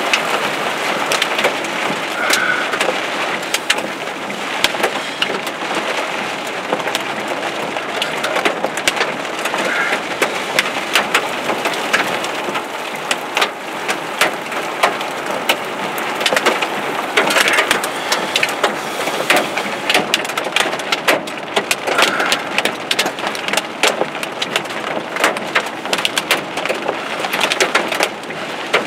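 Heavy rain pelting a car's windshield and roof, heard from inside the car: a dense, steady hiss dotted with many sharp drop impacts.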